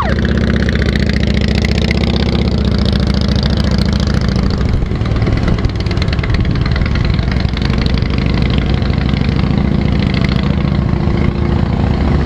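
Motorcycle engine running steadily and loud, close by.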